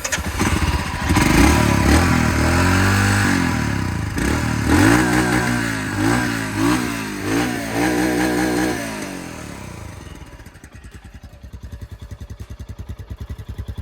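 Royal Enfield Scram 411's single-cylinder engine starting and being revved in several throttle blips, its exhaust note rising and falling, then settling to an even pulsing idle for the last few seconds.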